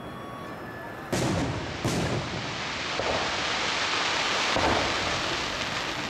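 Aerial firework shells bursting: two sharp bangs about a second in, under a second apart, followed by a dense hiss of further bursts that swells and stays loud.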